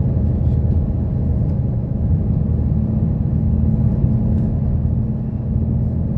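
Route bus under way, heard from inside the passenger cabin: a steady low engine drone and road rumble.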